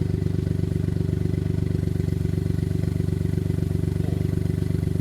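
Off-road vehicle engine running steadily at a constant speed, a fast, even, low-pitched pulsing that does not change.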